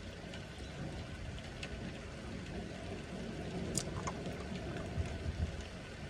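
Steady rain falling during a thunderstorm, with a low, uneven rumble underneath and a few sharp drop taps, the loudest a little under four seconds in.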